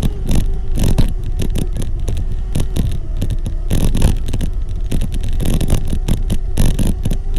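Electric bike being ridden: a steady motor whine under a low wind rumble on the microphone, with frequent knocks and rattles.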